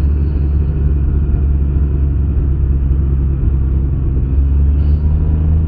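2021 Can-Am Ryker 900 three-wheeler's three-cylinder engine running steadily while cruising on the road, a steady low rumble with no revving or gear changes.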